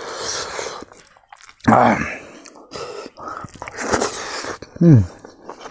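A person chewing a mouthful of rice and smoked pork curry close to the microphone, in irregular wet bursts, with a short hummed sound that falls in pitch near the end.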